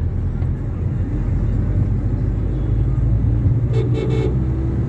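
Steady low rumble of vehicle engines and road traffic, with a vehicle horn tooting once for about half a second near the end.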